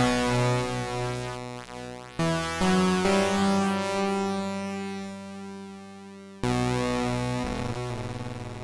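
Sequential OB-6 analog polyphonic synthesizer playing sustained chords with cross-modulation (X-mod/poly mod) shaping the tone, which shifts as each chord fades. A new chord is struck about two seconds in, another just after, and a last one about three-quarters of the way through.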